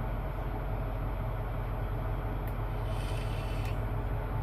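Semi truck's diesel engine idling steadily, a low, even drone. A brief faint hiss comes in about three seconds in.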